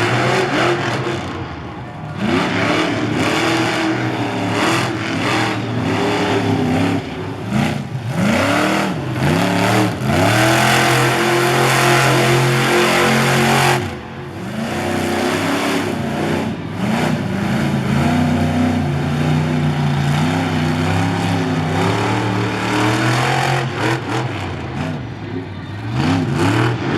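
Monster truck engine revving hard over and over, its pitch climbing and falling with each blip of the throttle. About ten seconds in it is held at full throttle for several seconds, then drops off suddenly.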